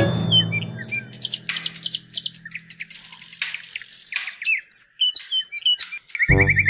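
Birds chirping: many short, quick high chirps, some sliding up or down in pitch, while a music track dies away. Music starts again near the end.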